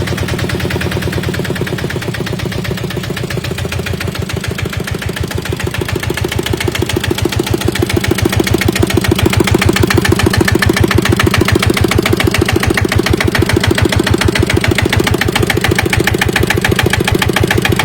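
Kubota single-cylinder diesel engine of a walking tractor running with an even chugging beat. It gets louder over the first several seconds, then holds steady.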